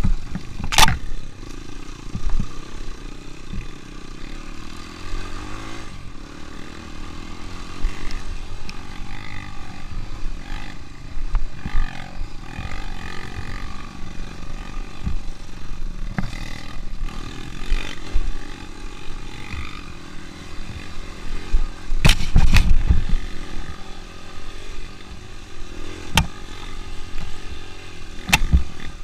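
Yamaha XTZ 125 trail bike's single-cylinder four-stroke engine running under load on a dirt trail, through an aftermarket Protork exhaust, heard from the rider's helmet camera. Sharp knocks from the bike jolting over the rough ground come and go, with a burst of them late on.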